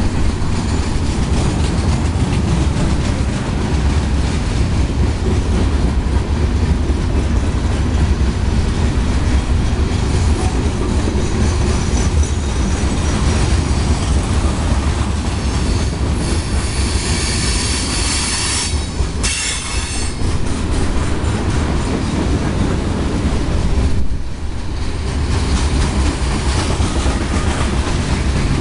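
Freight cars of a CSX mixed freight train rolling past: a steady heavy rumble of steel wheels on rail. About 16 seconds in, a high metallic wheel squeal rises over the rumble and lasts about four seconds, with a brief break in the middle.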